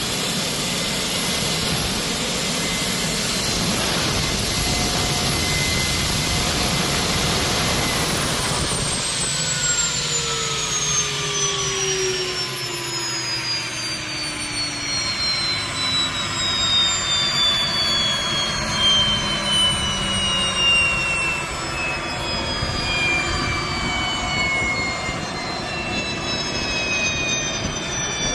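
Aircraft APU gas turbine running at speed with a steady high whine and rushing hiss, then shutting down about eight seconds in: the whine falls steadily in pitch as the turbine spools down.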